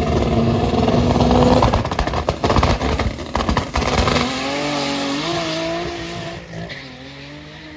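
Cars launching hard off the line in a drag race: a loud burst of engine and tyre noise, then an engine pulling away, its pitch climbing through a couple of gear changes as it fades into the distance.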